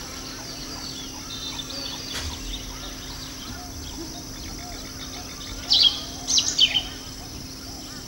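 Many birds chirping and calling together, with a few loud, sharp high-pitched calls in quick succession about three-quarters of the way through.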